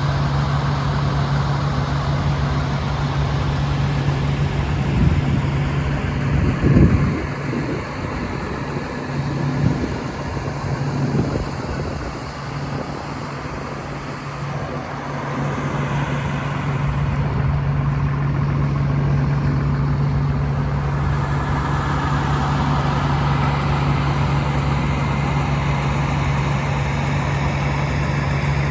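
John Deere 7130 tractor's diesel engine idling steadily, with a few knocks and thumps about a fifth to a third of the way in.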